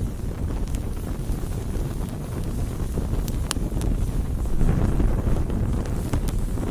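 Campfire burning: a steady low rumble of flames with scattered sharp crackles and pops, one louder pop about halfway through and the rumble swelling briefly a little later.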